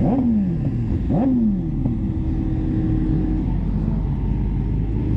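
Motorcycle engine revved twice in quick blips, its pitch jumping up and falling back each time, then running at a steady pitch for a couple of seconds.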